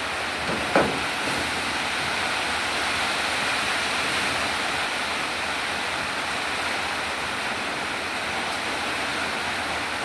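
Heavy rain falling steadily, an even hiss. A single short knock about a second in.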